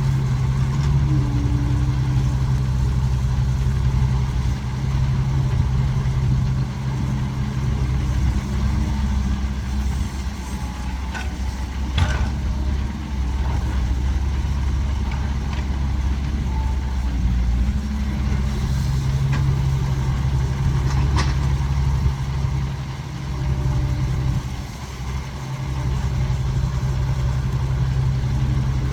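Diesel engine of a Caterpillar 312 hydraulic excavator running steadily as it loads soil onto a dump truck, the engine note easing off twice. A sharp clank stands out about 12 seconds in, and a smaller one about 21 seconds in.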